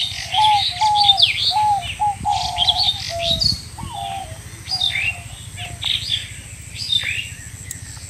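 Several birds calling and chirping: quick, high sweeping chirps and whistles throughout, with a lower call of short repeated notes in the first half that then stops.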